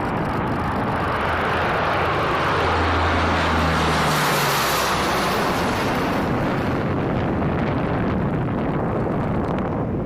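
Low-flying C-130 Hercules turboprop passing by: a loud, steady rush of engine and propeller noise that builds to a peak about four seconds in, with a low drone that drops in pitch as it goes past.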